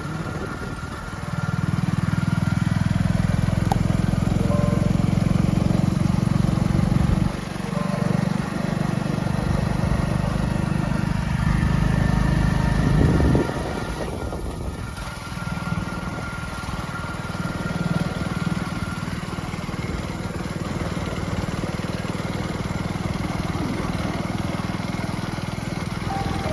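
Motorcycle engine running under way. It is louder for the first half, with a brief dip about seven seconds in, then eases to a lower, steady run for the rest.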